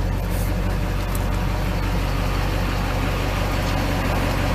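A 6.6-litre Duramax turbo-diesel V8 idling steadily, a low even hum heard from inside the cab, with a few faint clicks.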